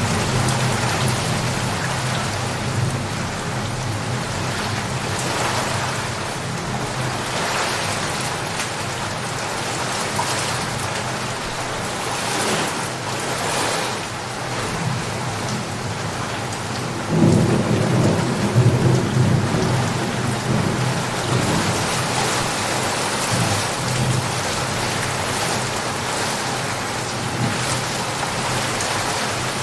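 Steady heavy rain pattering on surfaces, with a low thunder rumble swelling up a little past the middle and rolling on for several seconds.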